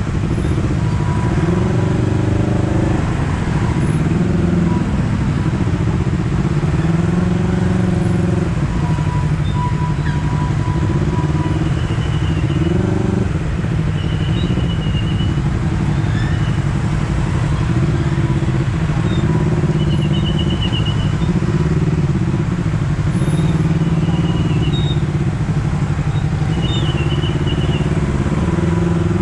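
Honda CBR250RR sportbike engine and exhaust under way, its note rising and falling repeatedly as the throttle is opened and eased off through the gears, over steady wind and road noise.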